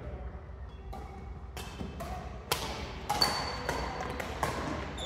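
Badminton rally: sharp racket strikes on the shuttlecock, a series of cracks roughly every half second to second, beginning about a second and a half in.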